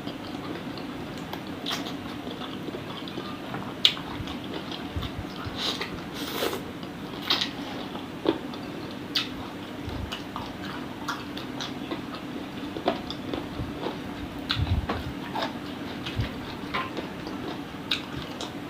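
Close-up eating sounds: a person biting and chewing skewered chicken feet in a spicy sauce, with irregular sharp clicks and crunches and wet mouth sounds. A steady low hum runs underneath.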